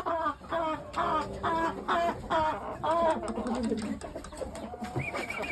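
Chickens clucking in a quick run of calls, about two or three a second, dying down after about three and a half seconds, with a brief high, steady call near the end.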